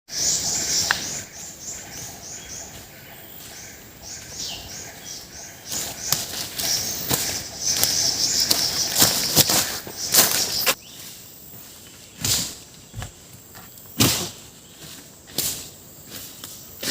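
Forest ambience: a high chirping call repeats a couple of times a second for the first ten seconds or so, then stops. Through the second half come irregular rustles and crunches in the undergrowth.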